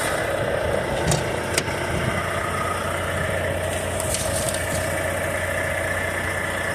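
Semi truck's diesel engine idling steadily, with two light clicks about a second in.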